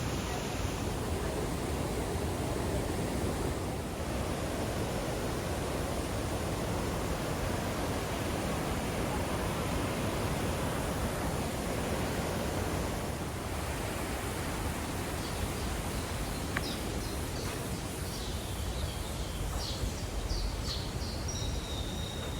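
Iguazu Falls' cascades pouring, a steady rush of water noise. About two-thirds of the way in, short high chirps join it.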